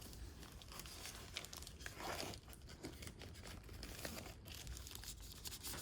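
Comic book blind bag crinkling and rustling as it is handled and opened, with faint, irregular crackles throughout.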